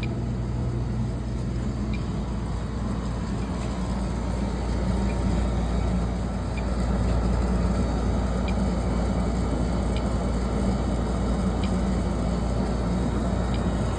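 Oil furnace running: a steady low rumble from the oil burner and blower, a little louder partway through.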